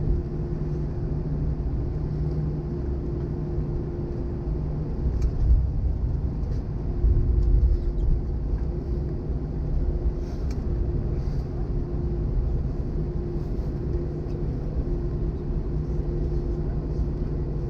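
Airbus A320 cabin noise as the jet taxis after landing: a steady low rumble from the idling CFM56 engines with a constant hum, and a few heavier bumps from the landing gear rolling over the taxiway.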